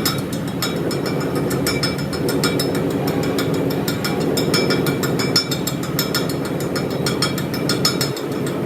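A motor running steadily under rapid, irregular metallic clicking and rattling.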